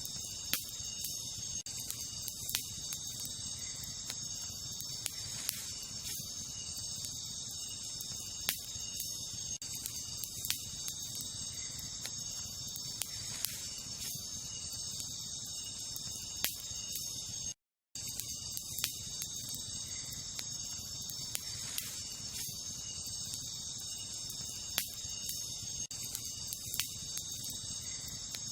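Wood campfire crackling, with sharp snaps and pops every second or two, over a steady high-pitched chorus of crickets or other night insects. The sound cuts out completely for a split second about two-thirds of the way through.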